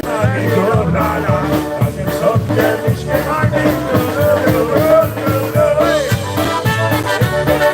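Live polka band playing with a steady beat, bass and drums under wavering melodic lines.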